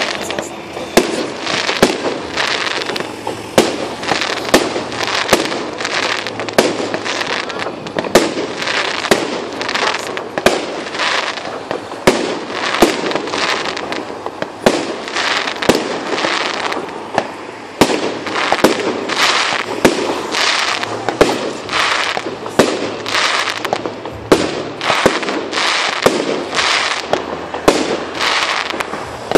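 Aerial fireworks display: a continuous barrage of sharp bangs from shells bursting, coming in quick, irregular succession over a steady crackle.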